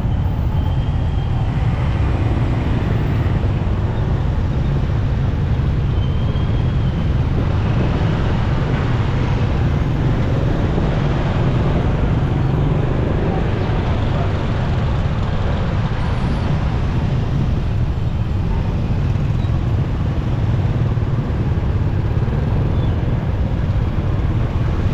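Motorcycle riding through city traffic, heard from the rider's own mount: steady engine and road noise with a deep, even rumble.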